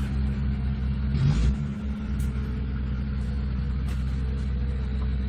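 Off-road 4x4 engine running steadily at low revs, a constant low drone, with a couple of faint knocks.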